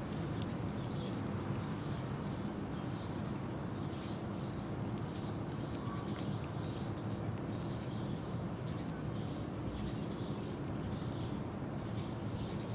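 A small animal chirping: short high chirps repeating about twice a second over a steady low background rumble.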